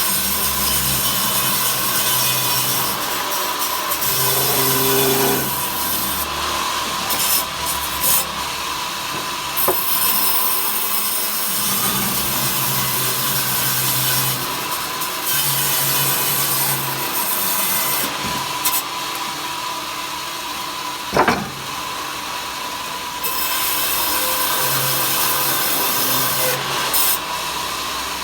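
A saw cutting wood: a steady, rasping noise that runs on with little change, broken by a few sharp clicks and one louder knock about two-thirds of the way through.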